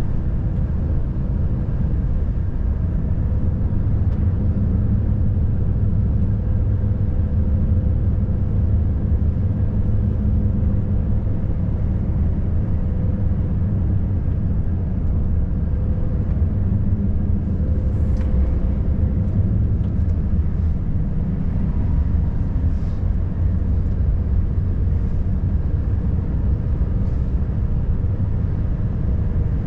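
Volvo FH540 truck's 13-litre inline-six diesel engine running steadily on the move, a continuous low drone.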